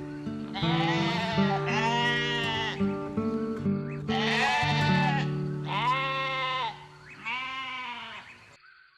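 Goat bleating, about five drawn-out bleats in a row over steady background music.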